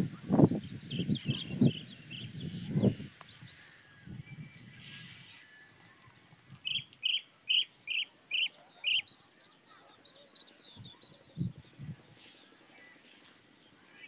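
Bird calling outdoors: a run of six short, evenly spaced high notes about halfway through, with other scattered chirps before and after. Low thumps on the microphone in the first three seconds.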